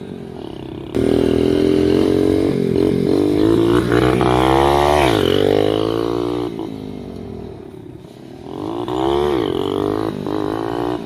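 Motorcycle engine running loud, getting louder about a second in, with its pitch dropping and climbing again twice as the engine revs down and up.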